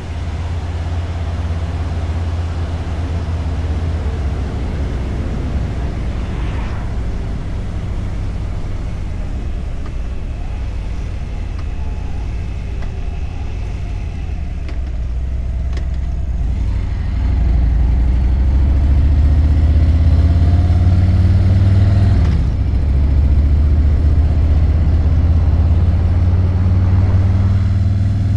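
Harley-Davidson motorcycle engine running while being ridden, a steady low sound. It gets louder about two-thirds of the way through and dips briefly a few seconds later.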